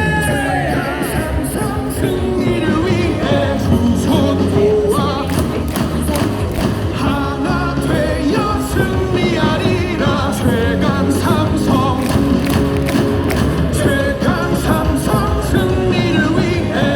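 Loud music with singing, played over a ballpark's loudspeakers, with a steady beat.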